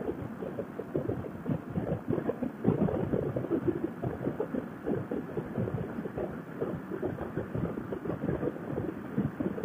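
Wind buffeting a rider's microphone on a Honda NC700X motorcycle at road speed: an uneven, fluttering rumble.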